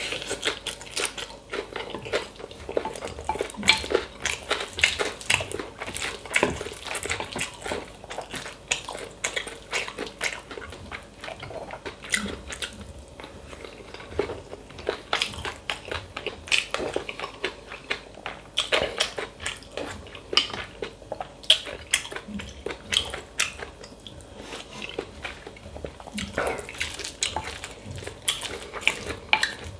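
Close-miked eating sounds of a person chewing mouthfuls of red pepper tuna bibimbap, with many small sharp clicks and clinks of a utensil against the bowl.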